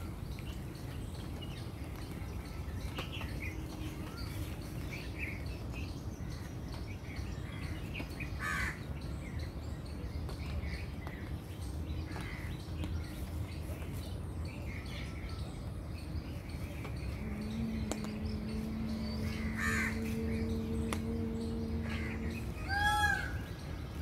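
Birds calling off and on outdoors, short scattered calls over a steady background rumble. A steady droning tone comes in about two-thirds of the way through, and a quick run of chirps sounds near the end.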